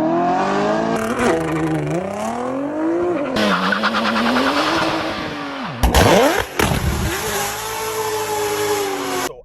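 Several short clips of sports-car engines revving and running, cut one after another, the pitch climbing and falling with the revs. Just before six seconds in there is a sharp sweep down and back up in pitch, and the sound changes abruptly at each cut.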